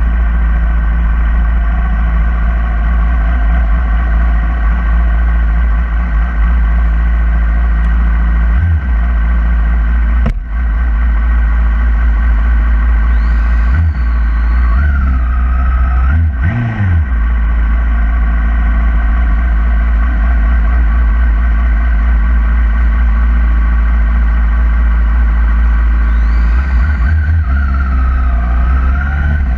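2011 Yamaha R6's inline-four engine running at speed on a race track, under a heavy, steady wind rumble. The pitch rises and shifts a few times as the revs change.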